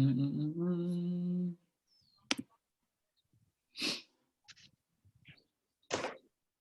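A person's voice humming, low and held for about a second and a half, stepping up to a slightly higher note partway through. It is followed by three short, breathy noises.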